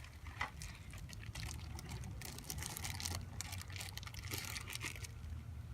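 Irregular rustling and crinkling handling noise over a low steady rumble.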